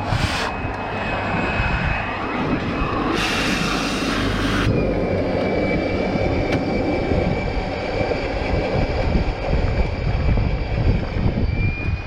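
An engine or motor running steadily, with two short bursts of hissing noise, one at the start and one about three seconds in.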